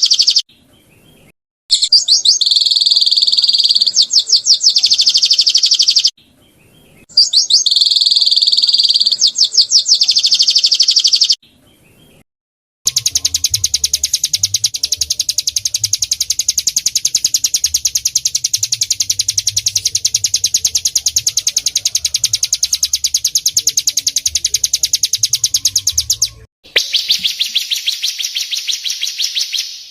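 Recorded songbird song: rapid high trilled chirping in three bursts of several seconds with abrupt gaps between them, then a long unbroken, very fast buzzing trill lasting over ten seconds, and another after a brief break near the end.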